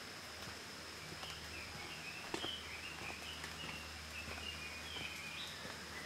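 A songbird singing a run of short, quick chirping notes for several seconds, over the walker's footsteps on a muddy dirt trail.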